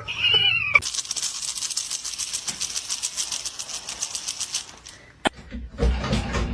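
A cat meows once, a short rising-then-falling call. It is followed by about four seconds of a fast, even rasping rattle.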